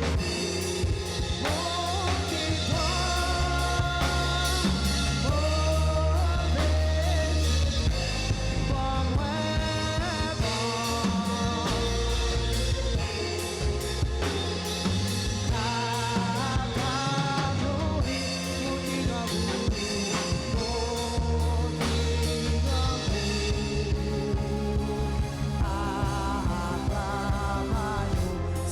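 Live church band playing a gospel song: drum kit and heavy bass under a melody of held notes with vibrato.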